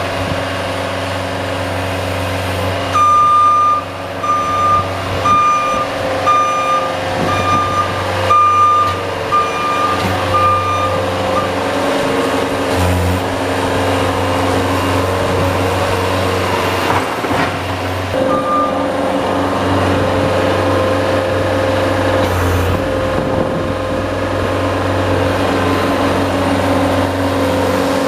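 Engine of a snow-plowing vehicle running steadily. A high warning beep sounds about once a second for about eight seconds, typical of a reverse alarm as the plow backs up, with one more beep later on.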